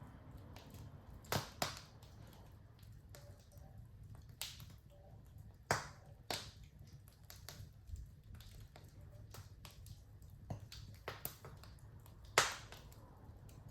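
Wood fire in a fireplace crackling: irregular sharp pops and snaps over a low steady rumble of the flames, the loudest pop coming near the end.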